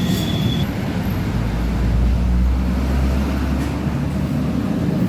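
A motor vehicle engine running with a steady low rumble that swells for a couple of seconds in the middle.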